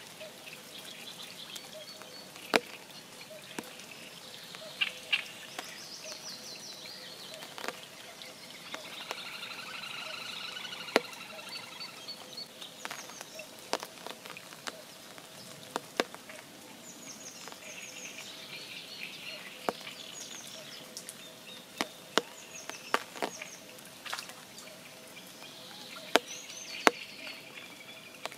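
Spring rain at a forest pond: large drops falling irregularly with sharp ticks, while songbirds sing and trill in the background over a faint steady drone.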